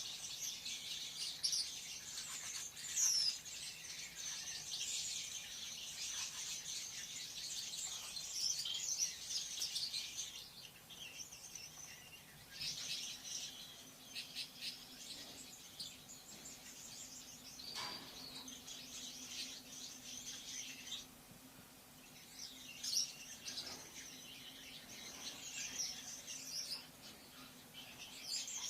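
Lovebird chattering: rapid, shrill high-pitched chirps and squeaks in spells, with a couple of brief pauses, one near the middle and a longer one about three quarters of the way through.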